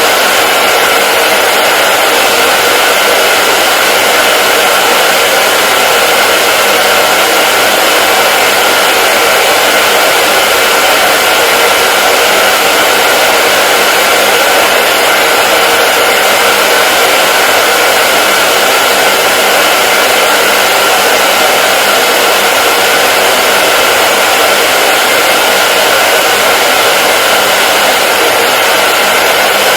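Hair dryer running steadily on one setting: a loud, even rush of blown air with a faint steady whine, unchanging throughout.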